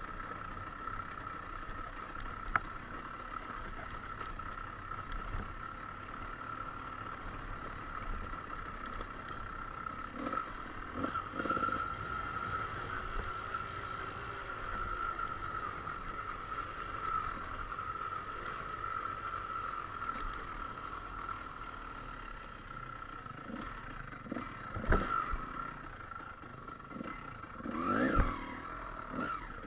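Trail motorcycle engine running steadily at low revs, with a few sharp knocks and clatters, the loudest near the end.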